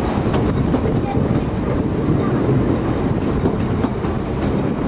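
Narrow-gauge railway carriage running steadily along the track: a continuous rumble of wheels on rails with a few faint clicks.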